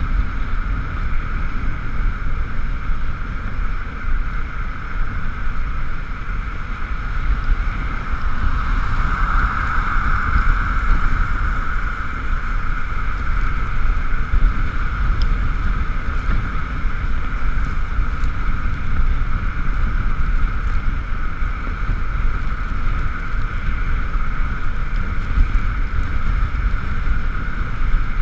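Wind and road noise from riding an Ekoway ML5000 electric scooter: a steady low rumble with a constant higher hiss that swells for a few seconds about ten seconds in.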